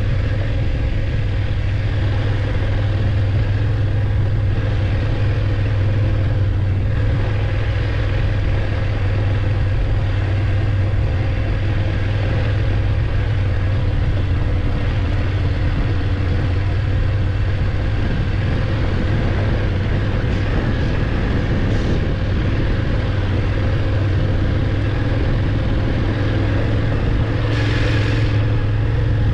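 BMW F850GS motorcycle's parallel-twin engine running at fairly steady revs while riding, with a brief hiss about a second before the end.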